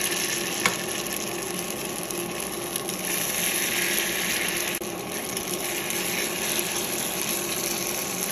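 Shrimp fritter batter sizzling steadily in hot oil in a small frying pan, with one sharp clink of the metal spoon against the pan less than a second in.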